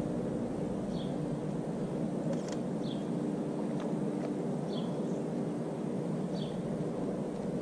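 Outdoor background of a steady low hum, with a small bird repeating one short, high chirp about every two seconds.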